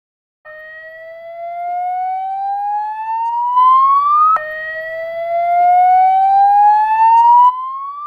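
Fire alarm siren: an electronic tone that starts about half a second in and rises slowly in pitch over about four seconds, drops back abruptly, and starts rising again.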